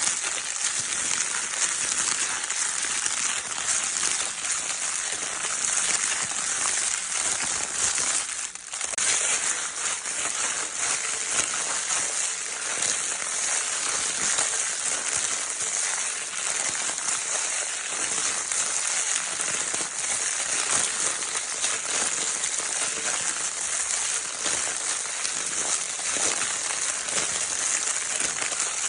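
Baby's crinkle paper toy being crinkled continuously, a dense, steady crackling rustle with a brief lull about eight and a half seconds in.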